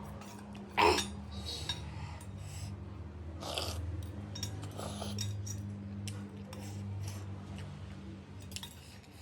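Someone eating noodle soup: chewing, with scattered clinks of a utensil against the bowl, one sharp clink about a second in the loudest. A steady low hum runs underneath.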